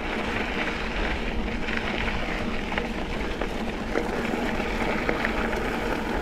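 Mountain bike rolling along a dirt double-track trail: steady tyre noise with frequent small rattles and ticks.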